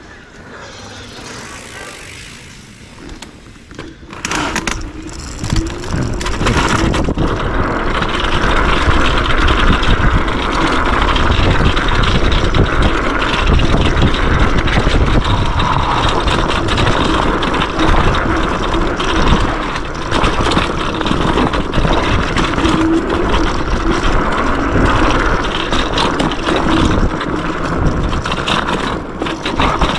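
Yume X11 electric scooter riding fast down a dirt trail: tyres crunching and rattling over the ground with scattered knocks, fairly quiet at first and loud and steady from about four seconds in.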